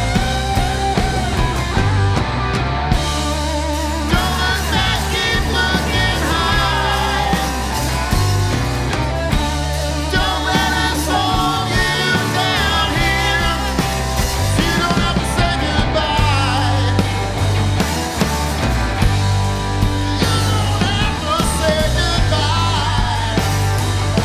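Live rock band playing: drums, bass and electric guitars, with a melody line that bends and wavers above the steady low end.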